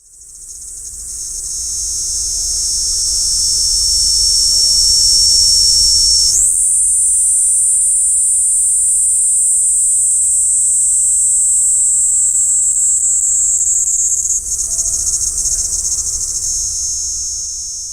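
A cicada singing one continuous, high, steady buzz that shifts up in pitch about six seconds in and then holds.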